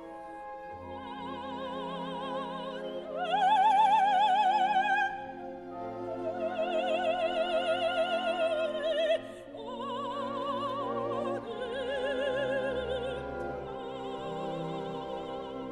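Operatic singing with a wide vibrato over orchestral accompaniment: long held notes, the loudest a high note that rises about three seconds in and is held for about two seconds.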